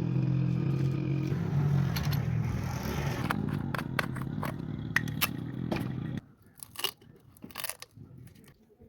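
A small engine running with a steady hum that cuts off suddenly about six seconds in, followed by scattered light clicks and scrapes.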